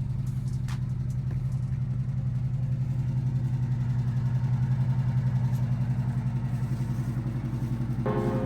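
1989 Chevrolet Caprice Classic's engine idling steadily with a low, even pulse.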